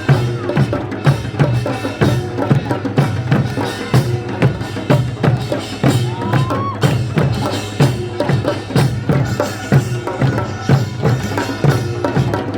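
Korean traditional folk music carried by drums beaten in a steady, repeating rhythm, with a brief rising note about halfway through.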